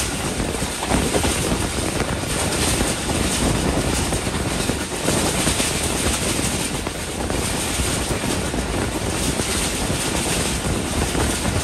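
Steady rushing noise of a passenger train running at speed, heard from an open coach door: wheels rolling on the rails, with wind buffeting the microphone.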